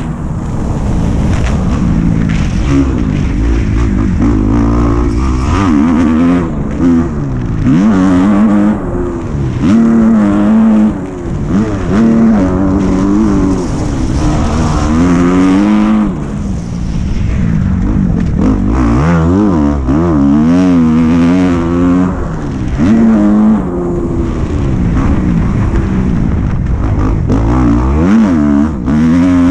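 Dirt bike engine being ridden hard, revving up and dropping back over and over as the throttle is worked, its pitch rising and falling every second or two.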